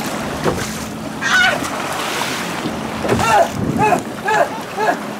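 Wind and water noise on an open-water microphone, with a run of short, repeated high-pitched calls, about two a second, from about three seconds in.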